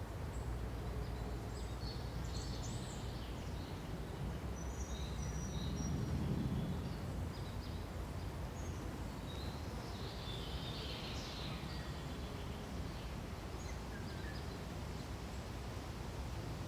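Forest ambience: a steady low background hum of noise with scattered high bird chirps and calls, in clusters near the start, around five seconds and around ten to eleven seconds. A brief low swell of noise rises and fades about six seconds in.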